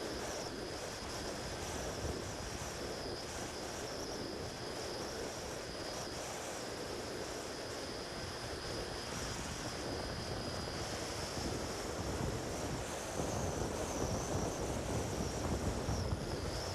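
Strong wind buffeting the microphone in gusts, louder near the end, with a thin high whine from a Turbo Timber 1.5 RC model plane's electric motor that wavers and rises slightly past the middle.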